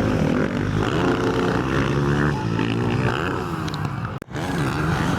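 Motocross motorcycle engines racing, revving up and down as the bikes accelerate and shift, with a brief break in the sound about four seconds in.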